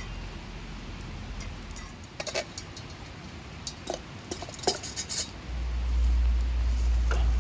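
A few light clinks and knocks, like metal camp cookware being handled, between about two and five seconds in, over a steady hiss of rain. From about five and a half seconds a steady low rumble sets in and stays.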